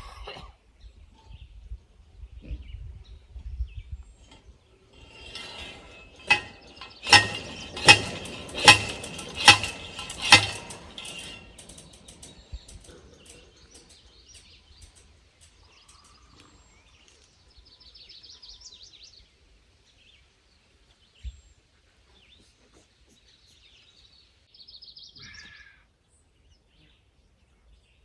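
A run of about six sharp hammer strikes with a metallic ring, roughly one a second, as fence hardware is pounded in. Later a few short bird chirps.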